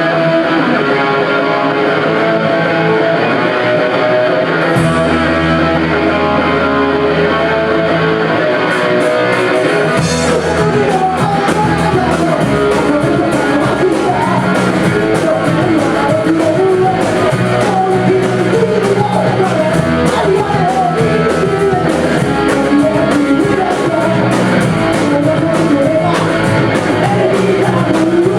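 Rock band playing live: a guitar opens alone, a low bass part comes in about five seconds in, and from about ten seconds in the full band with drums and a singing voice joins.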